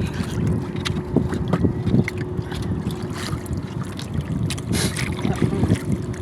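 Wind buffeting the microphone over open water, with scattered knocks and splashes and a faint steady hum.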